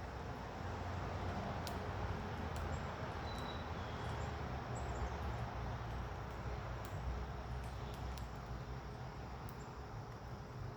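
Steady outdoor background hiss and low rumble, with sparse, faint, brief high chirps from small birds and a few light ticks.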